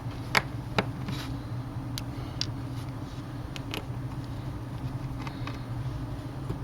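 Small sharp clicks and taps of hand tools on a Kindle Fire HDX tablet's internal frame as its LCD is unscrewed and freed: about five clicks, the loudest two in the first second. A steady low hum runs underneath.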